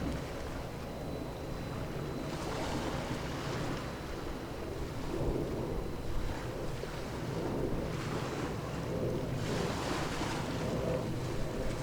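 Waves washing and wind buffeting the microphone, a steady low rumble with swells of surf hiss every few seconds.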